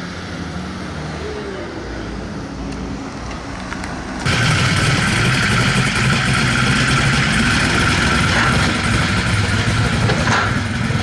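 Two drag-racing cars, a Pontiac Trans Am WS6 and a twin-turbo Fox-body Mustang, idling at the start line. About four seconds in, engine noise jumps suddenly to loud as the cars launch at full throttle.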